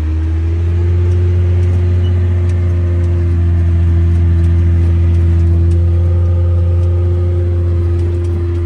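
Miller G75 self-propelled sprayer's 6.7 Cummins diesel engine running steadily as the sprayer works across the field, heard from inside the cab. It is a steady low drone whose tone rises slightly in the first half second, then holds.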